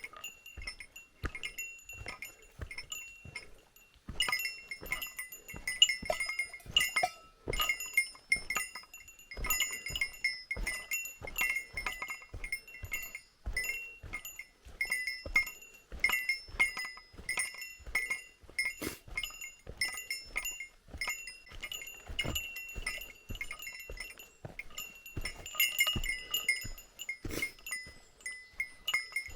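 Small metal bell jingling over and over in an uneven rhythm, each strike ringing at the same few pitches.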